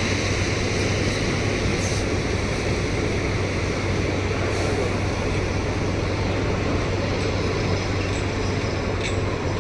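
Tata Hitachi 200 excavator's diesel engine running steadily with a constant low hum, and a few faint clicks from the machine.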